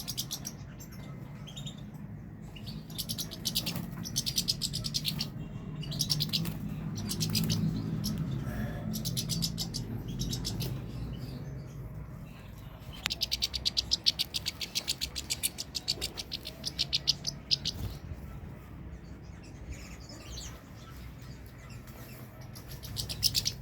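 European goldfinch singing: fast, high twittering trills in phrases a second or two long, with short pauses between them.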